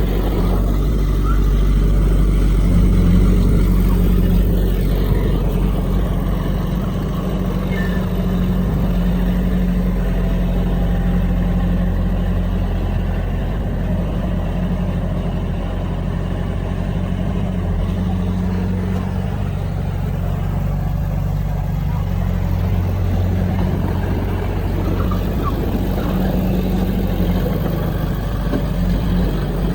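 Heavy diesel engine of earthmoving machinery running steadily under load, a low, even drone that swells slightly a few seconds in.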